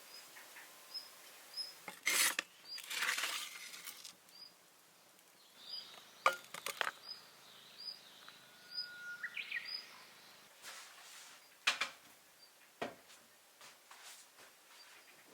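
Scattered knocks, clinks and rustles of household things being handled. Behind them a bird keeps repeating a short high chirp, a little under once a second.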